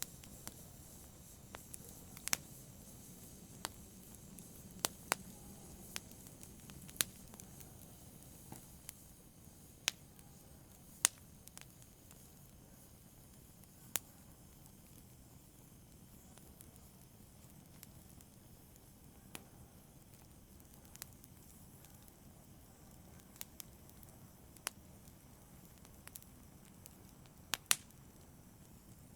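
Fire crackling in a brazier: irregular sharp pops and snaps, a few louder ones among many soft ticks, over a faint steady hiss.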